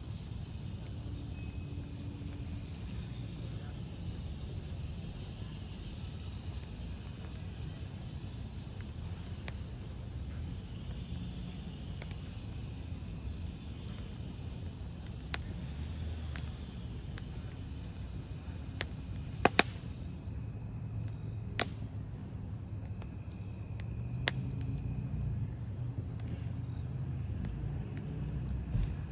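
Campfire burning with a low rumble and a few sharp pops of burning wood, the loudest about two-thirds of the way in, under a steady high chirring of crickets.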